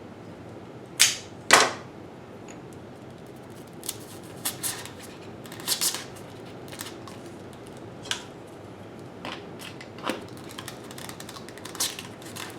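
Scissors snipping: two loud, sharp snips about a second in, then scattered lighter clicks and taps.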